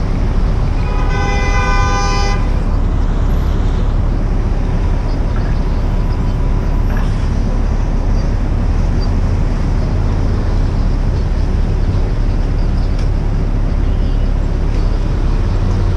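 Wind and road rumble on a GoPro microphone during a bike ride through city traffic, steady throughout. A vehicle horn honks once about a second in, lasting just over a second.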